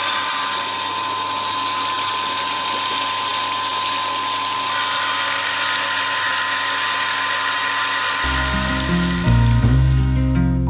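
A small electric motor running steadily with a high whine and hiss, cutting out about eight seconds in as music comes in.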